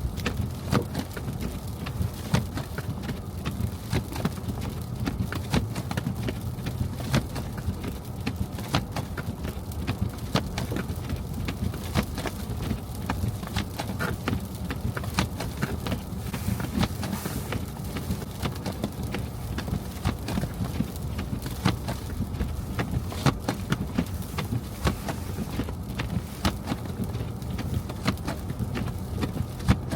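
A car driving on snow-covered city streets: a steady low rumble with dense, irregular ticking and knocking.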